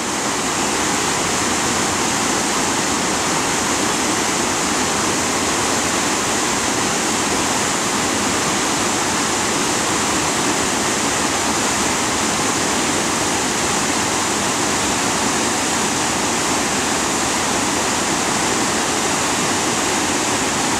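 Steady rush of whitewater pouring over a 17-foot waterfall.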